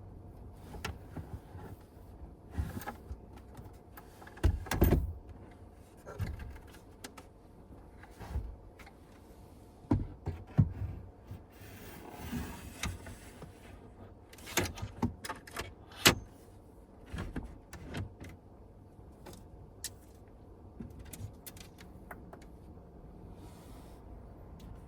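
A series of irregular clicks, knocks and rustles, as of objects being handled and set down at close range. The louder knocks come in clusters about 5 seconds in, around 10 seconds, and between 15 and 16 seconds.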